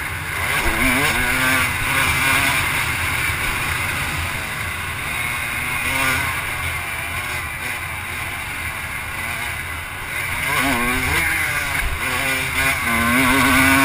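Off-road vehicle engine running as it is ridden around a dirt track, its pitch rising and falling with the throttle, with a sharp rev-and-drop about two-thirds of the way through and a climbing rev near the end.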